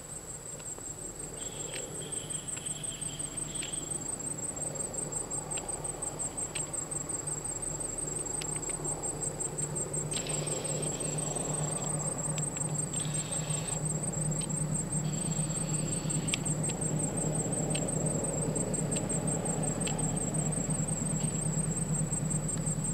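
An insect's high, rapidly pulsing trill from the forest, over the low hum of an approaching diesel train that grows steadily louder.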